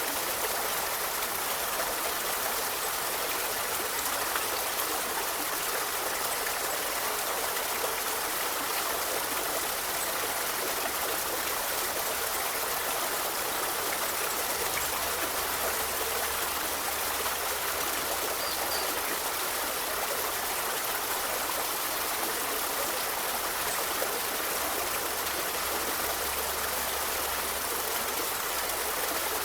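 River water flowing over stones: a steady rushing and babbling that does not change.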